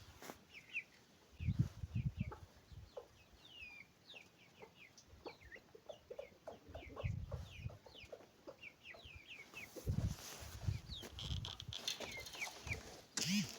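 Animal calls: many short, high, falling chirps throughout, with bouts of low calls about 1.5 s in, around 7 s and again near the end.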